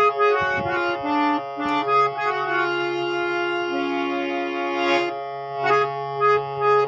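A 60-year-old full-size harmonium with Paris reeds playing a melody of changing notes over steady held bass notes.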